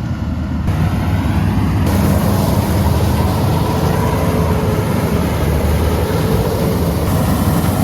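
Combine harvester's heavy diesel engine running steadily during paddy harvesting, a loud low hum that grows a little louder about two seconds in.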